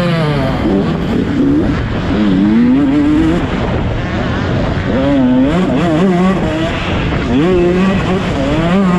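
Motocross motorcycle engines revving on track, their pitch climbing and dropping again and again as the throttle is opened and shut, with more than one bike heard at times.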